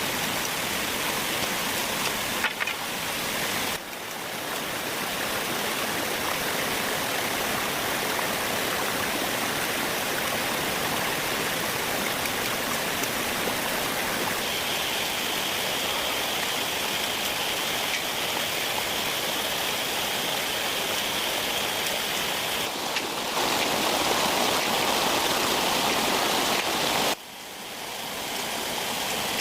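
Steady hiss of running water or rain. The sound changes abruptly about 4 s and 27 s in, a faint steady high tone comes in for several seconds in the middle, and the noise is louder for a few seconds near the end.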